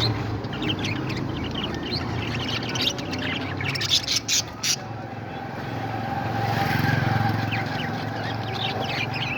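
Parrots chirping many quick times, with a few sharp, loud calls about four seconds in, over a steady low hum.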